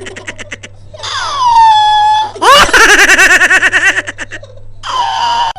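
A baby bird's laugh-like calls: a long whistle falling and levelling off, then a rising whoop that breaks into a fast run of 'ha-ha-ha' pulses, and another held note near the end.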